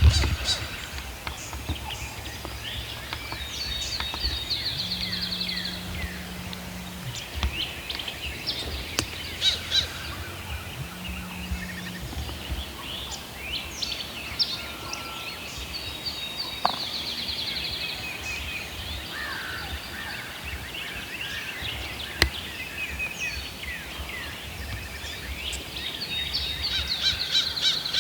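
Wild turkey gobbler gobbling three times, about ten seconds apart, with small songbirds chirping in the woods around it.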